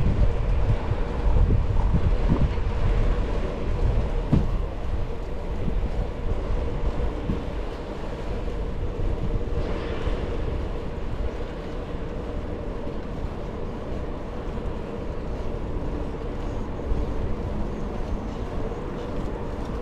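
Steady low rumble of rolling and wind noise on a moving bicycle's camera microphone, heavier in the first few seconds, with a faint steady hum underneath.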